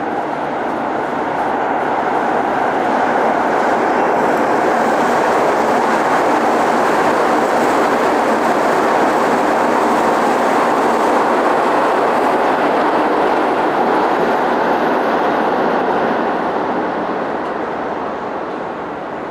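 A train passing: a steady rushing rumble that builds over the first few seconds, holds, and fades from about 16 seconds in.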